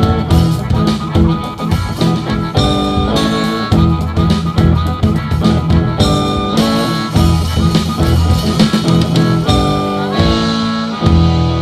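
Live blues band playing an instrumental passage: held melody notes over bass and a steady drumbeat.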